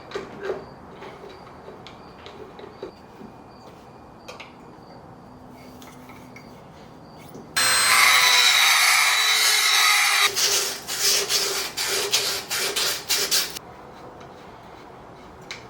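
Rotary grinding tool porting out a throttle body to match the intake. After a quiet stretch with a few faint ticks, the tool spins up loud and steady about eight seconds in, then grinds in uneven bursts for a few seconds before stopping.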